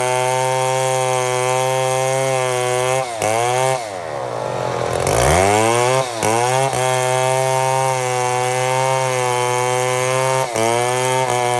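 Chainsaw running at high revs while milling a mahogany log. About three seconds in the engine speed drops and then climbs back over a couple of seconds, and it dips briefly a few more times before returning to steady high revs.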